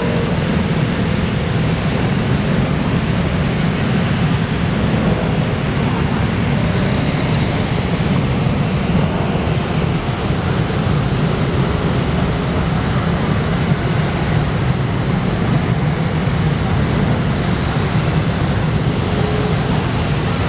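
Dense road traffic: a steady, unbroken rumble of many passing vehicles.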